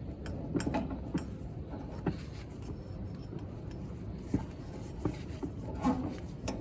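Scattered light clicks and rubbing from small metal parts being handled, as when fitting a 5/8-inch pipe coupling, over a low steady background hum.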